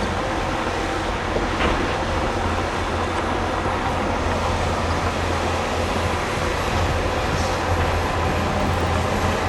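Heavy diesel earthmoving machinery running steadily at a construction fill site, a continuous low engine rumble with track and metal clatter.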